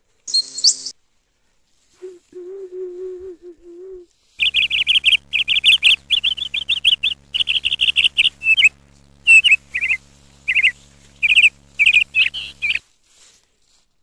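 Bird calls: rapid high chirps and trills in short bursts over about eight seconds, with a steady low hum underneath. Before them come a brief high squeal and a low warbling note.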